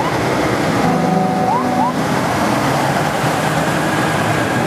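Steady din of big trucks passing on the street, with two short rising siren chirps about one and a half seconds in.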